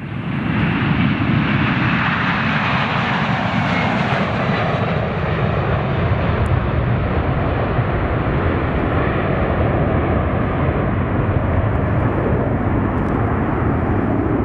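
Airliner jet engines at high power on takeoff: a loud, steady rush with a faint falling whine in the first few seconds, under a heavy low rumble of strong wind on the microphone.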